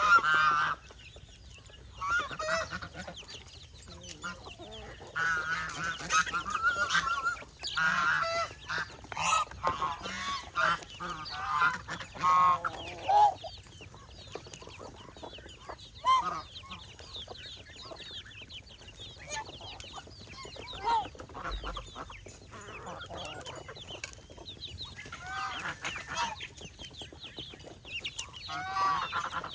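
A flock of geese honking with chickens clucking among them. The calls come repeatedly, loudest and thickest in the first half, then thin out to scattered quieter calls before a loud burst again near the end.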